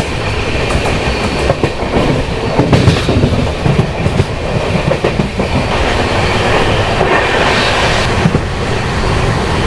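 Jan Shatabdi Express passenger coach running along the track: a steady rumble with the wheels clattering over rail joints and scattered knocks.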